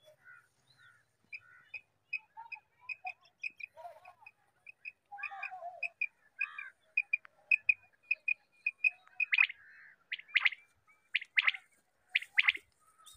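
Birds calling: a quick run of short, high pips several times a second, then louder sharp calls repeated about once a second near the end.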